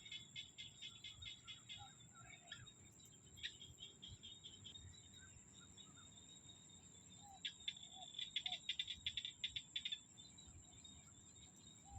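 Rice-field chorus of insects and small frogs: a steady, high-pitched insect trill runs throughout. Rapid pulsing calls rise over it twice, during the first two seconds or so and again from about seven to ten seconds in, with a few short lower notes among them.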